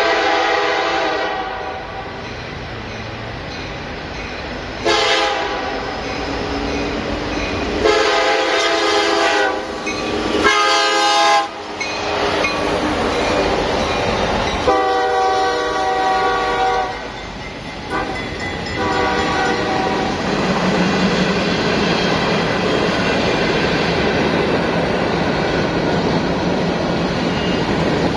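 Diesel freight locomotive's air horn sounding a series of long and shorter blasts over the first twenty seconds. After that comes the steady rumble of the locomotives and freight cars rolling past, with wheel clatter.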